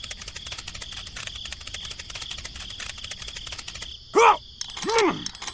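Crickets trilling: a fast, even, high-pitched pulsing. About four and five seconds in come two short pitched calls, each rising then falling.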